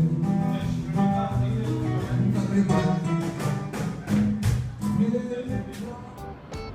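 Live Cape Verdean music with plucked acoustic guitar playing a steady rhythm.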